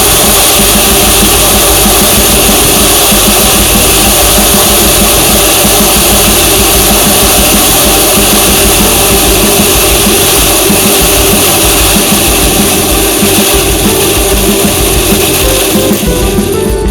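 Loud, steady rushing noise with music playing underneath. Near the end the noise drops away and only the music is left.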